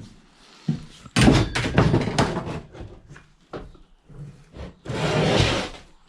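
Knocks and clatter of scrap metal being handled, a large salvaged motor among it, followed by about a second of scraping near the end.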